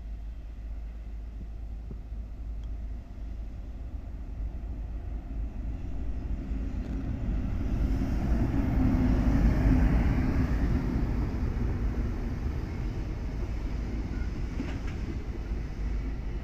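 EF510 electric locomotive hauling a container freight train, approaching and passing close by. Its rumble builds to the loudest point as the locomotive goes past about ten seconds in, then the container wagons roll by with a steady rumble over the rails.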